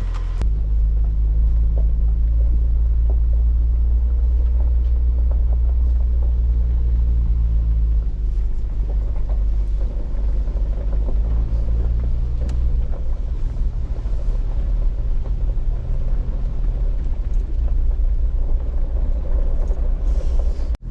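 Car driving, with a steady low engine and road drone heard from inside the cabin.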